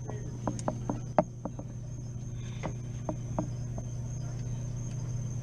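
Steady low hum of running equipment with a faint high whine, and a string of light clicks and taps of parts being handled during the first three seconds or so.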